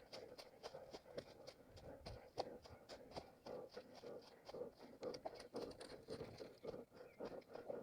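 Running footsteps on forest ground, a faint quick even rhythm of several steps a second.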